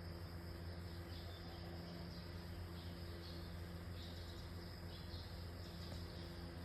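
Quiet background ambience: a steady low electrical hum, with a few faint high chirps now and then.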